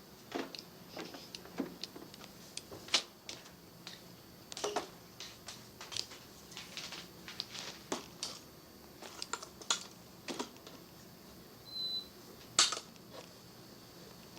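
Irregular light clicks and knocks, one or two a second, with a brief high beep about twelve seconds in.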